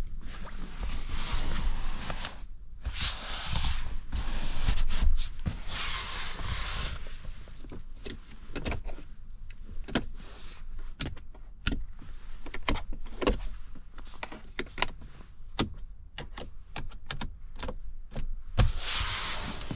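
Gusts of wind rushing over the microphone, swelling three times in the first seven seconds and again near the end. Between them comes a long run of sharp clicks and knocks, some spaced, some in quick clusters.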